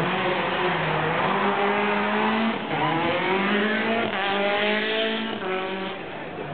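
Citroën DS3 World Rally Car's 1.6-litre turbocharged four-cylinder engine revving hard under acceleration. In the second half the pitch climbs and drops back twice at gear changes.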